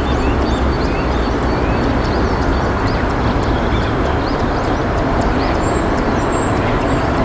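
Steady rushing of river water, with many short, high chirps of small birds scattered over it.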